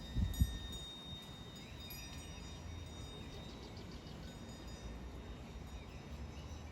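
Outdoor ambience on a countryside trail: a couple of footsteps near the start, a steady low rumble, and faint bird chirps a couple of seconds in.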